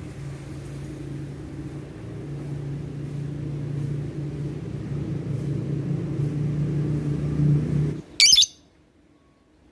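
A steady low hum stops abruptly about eight seconds in, then a pet songbird gives one short, loud, high-pitched chirp.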